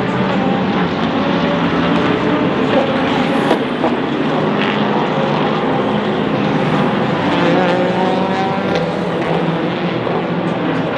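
Race car engines running at speed on track, several engine notes overlapping in a continuous loud drone with slight rises and falls in pitch.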